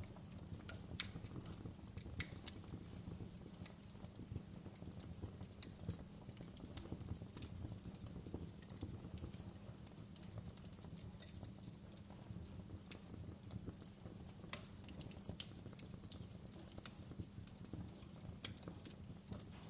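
Wood fire crackling in a fireplace: irregular sharp pops and snaps over a low steady rumble, with the loudest pops about a second and two and a half seconds in.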